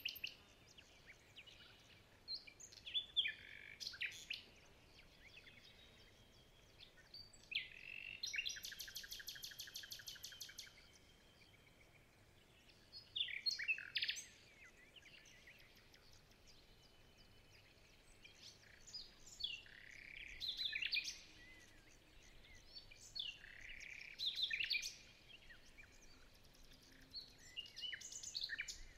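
Birds chirping and calling in scattered bursts of short, sweeping notes, with a fast, even trill lasting a couple of seconds about eight seconds in.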